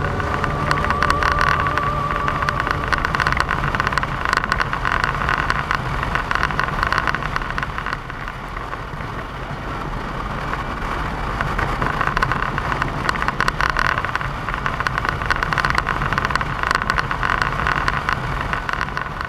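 Motorcycle on the move: steady engine and road noise with many small rattling ticks, easing briefly about eight seconds in.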